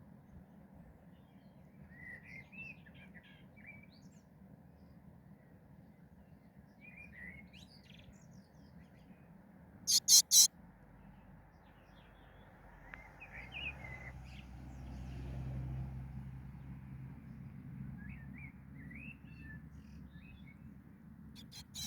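Small birds chirping in short scattered bursts at a nest of baby birds. About ten seconds in come three sharp, loud sounds in quick succession, and from about thirteen seconds a low rumble swells and fades.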